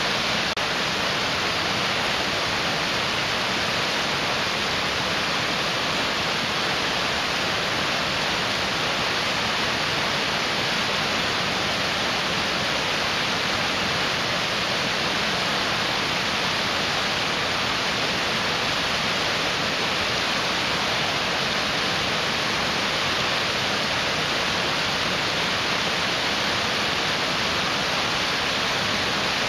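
Mountain stream rushing over rocks: a steady, even hiss of fast-flowing water.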